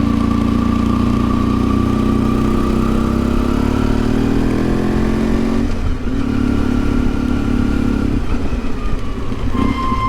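1992 Yamaha XTZ 750 Super Ténéré's parallel-twin engine running under way. Its pitch rises as it accelerates, breaks off briefly about six seconds in, then holds steady before changing again about eight seconds in.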